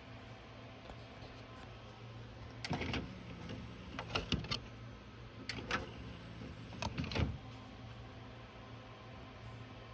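Small motor running in four short bursts with clicks and clunks, about three, four, five and a half and seven seconds in: the mechanism of a Luxman D-111 CD player, such as its disc tray, being worked. A steady low electrical hum lies underneath.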